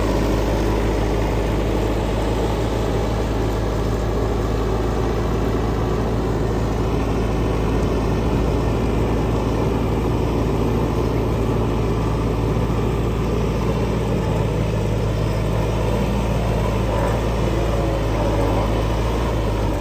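Fermec backhoe's diesel engine running steadily at idle, a constant low hum.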